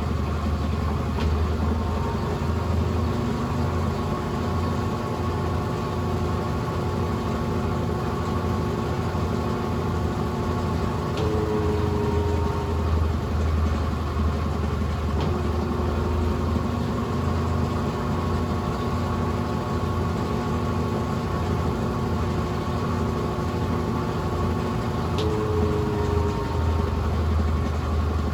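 Brastemp Ative 11 kg BWL11 washing machine running steadily with a low motor hum. A short pair of higher tones comes in twice, about 14 seconds apart.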